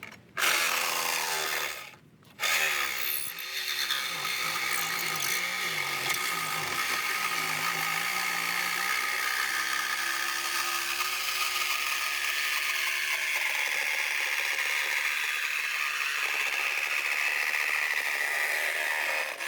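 Reciprocating saw (Sawzall) cutting through the body of a 1998 Isuzu Amigo. It stops briefly about two seconds in, then runs on steadily with a high, ringing tone.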